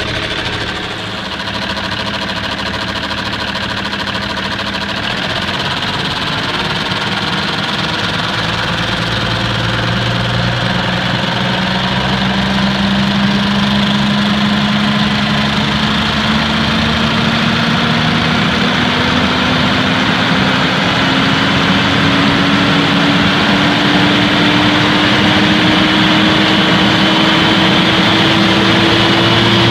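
Cummins 6TA-830 turbocharged six-cylinder diesel engine running, its speed climbing slowly and evenly from idle so that its pitch rises and it grows gradually louder.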